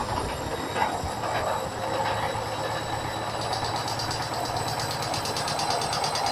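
Hoover washing machine spinning with an unbalanced load, its drum shaking and banging. A rapid, regular rattle sets in about halfway through.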